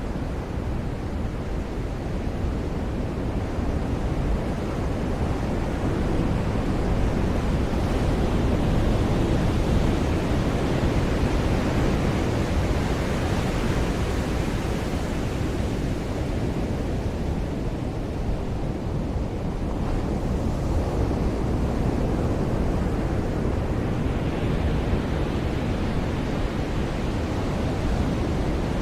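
Ocean surf washing on a beach: a steady rush of waves that swells twice, once near the middle and again towards the end, with wind on the microphone.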